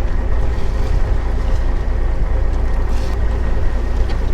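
Fishing boat's engine running steadily with a deep, constant rumble.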